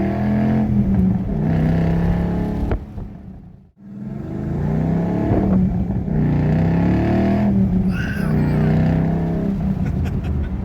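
2012 Ford Mustang Boss 302's 5.0-litre V8 accelerating through the gears, its exhaust note rising in pitch on each pull and dropping at the shifts; the exhaust has SLP Loudmouth axle-backs and opened side pipes with the resonators removed. The sound falls away almost to nothing for a moment about a third of the way in, then builds again.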